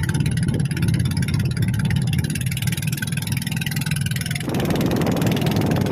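Small fishing boat's engine running steadily. About four and a half seconds in, a rush of wind and water noise joins it.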